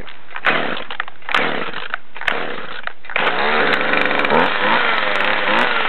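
Small Jonsered two-stroke chainsaw being cold-started with the choke out. It gives a series of irregular short bursts, then catches about three seconds in and keeps running, its pitch wavering up and down.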